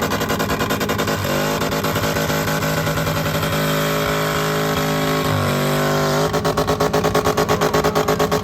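Truck engine running hard at high revs; the revs climb about a second in, dip briefly and pick up again near five seconds, and the sound turns into a pulsing beat near the end.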